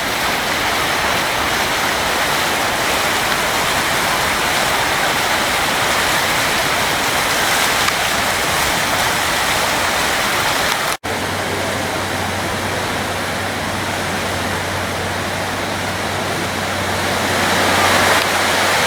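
Rushing floodwater of the high Mohawk River: a steady, even rush of water. It cuts out for an instant about halfway through, and after that a low steady hum runs under it.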